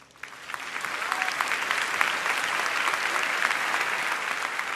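Audience applauding, swelling over the first second and then holding steady, easing a little near the end.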